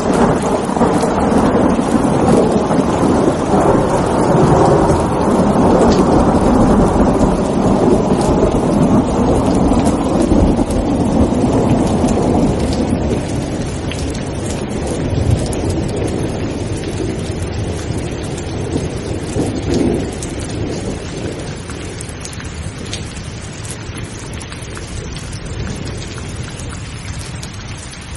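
Steady rain falling, with a long rolling peal of thunder that breaks at the start, rumbles loudest for about the first twelve seconds and then slowly dies away.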